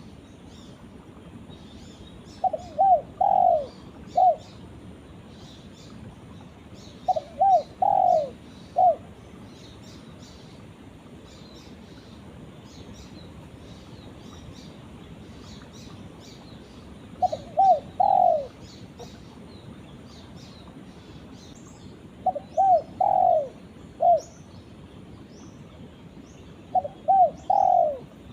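Spotted dove (tekukur) cooing its call to other doves: five phrases, each of two quick coos, a longer drawn coo and, after a short pause, one last short coo, with a longer gap between the second and third phrases. Faint high chirping of small birds goes on in the background.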